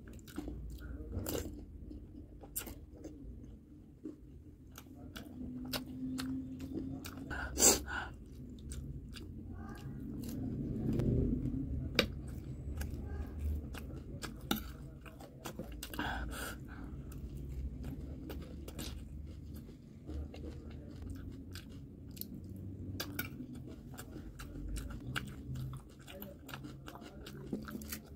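Close-miked eating sounds: chewing and crunching of crisp panipuri shells and chatpate noodle mix, with many small wet mouth clicks and a few louder sharp crunches, the loudest about eight seconds in.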